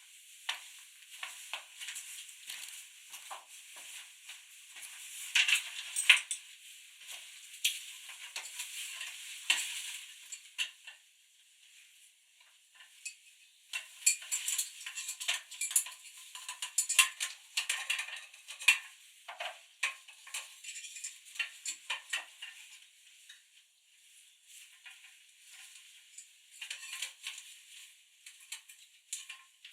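Crunching and crackling of footsteps in fresh snow, in irregular bursts, with two short pauses.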